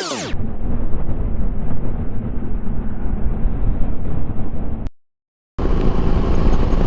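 Wind and road rumble of a motorcycle riding at speed, recorded on a bike-mounted or helmet camera, with the engine buried in the wind. The sound cuts out completely for about half a second around five seconds in, then resumes.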